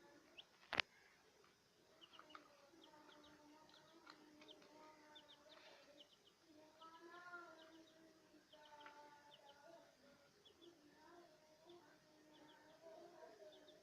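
Faint pet bird chirping: many short, quick, high chirps repeated throughout, over a faint wavering murmur. A single sharp click comes about a second in.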